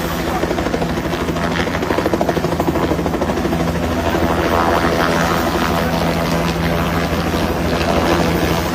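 Helicopter running close by: a steady engine tone under a rapid, even chop of the rotor blades.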